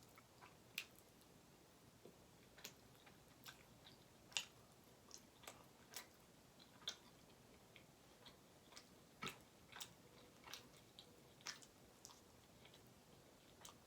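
Faint close-miked chewing of butter chicken and naan: irregular wet mouth clicks and smacks, about one or two a second.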